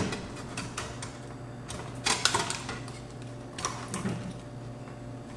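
Scattered light clicks and taps as a circuit card and the receiver's sheet-metal chassis are handled during disassembly: a few sharp knocks about two seconds in and again near four seconds.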